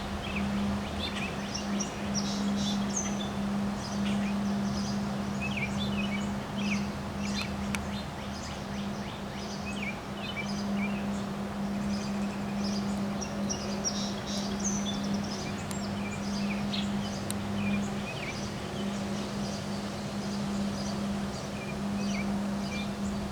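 Many small birds chirping and calling over a steady rush of wind, with a constant low hum running underneath.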